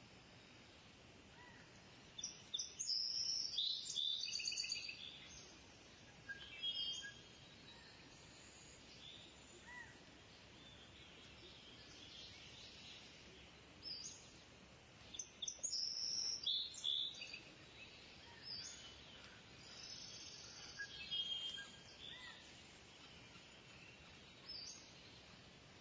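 Kingfisher calling: bouts of shrill, high-pitched, rapidly repeated notes, loudest about two seconds in, again around fifteen seconds in and around twenty-one seconds in, over a steady faint hiss.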